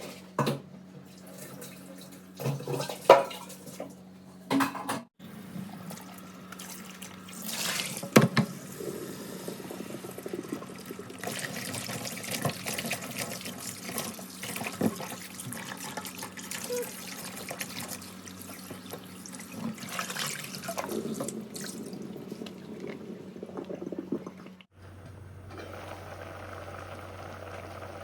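Water running and splashing, as when food or utensils are washed under flowing water, with a few sharp knocks in the first few seconds. About three seconds before the end the sound changes abruptly to a quieter background with a steady low hum.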